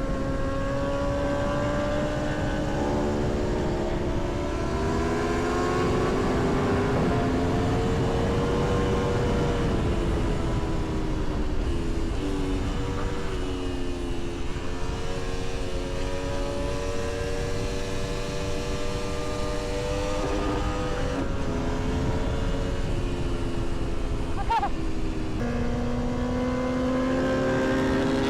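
Aprilia Tuono V4's V4 engine under hard riding, its pitch climbing and falling with the throttle, with sudden pitch changes at gear shifts several times. There is steady wind rush under it.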